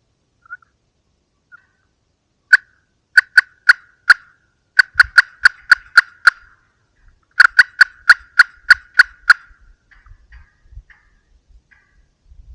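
Turkey yelping in three loud runs of sharp, evenly spaced notes, about four a second: first about four notes, then about eight, then about nine, with a few faint single notes before them.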